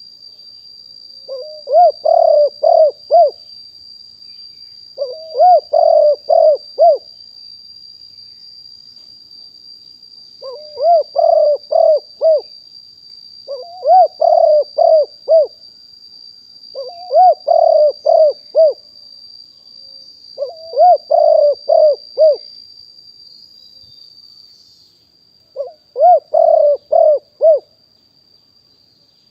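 Spotted dove cooing its song seven times, every three to four seconds. Each phrase is a soft lead-in followed by about four loud, low coos. A steady high-pitched thin tone runs underneath.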